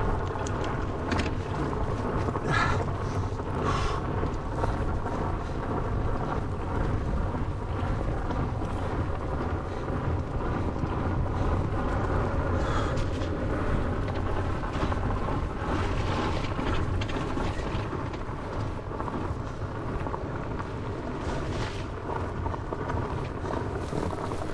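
Wind buffeting the microphone over the steady rumble of a fat bike's 4.8-inch Maxxis Minion knobbly tyres rolling fast over a loose, muddy dirt track, with a faint hum from the tyres and a few light knocks.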